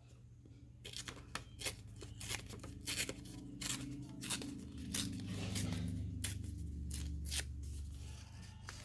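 Paper being trimmed by hand: a run of irregular sharp snips and rips of paper, a few each second, stopping near the end.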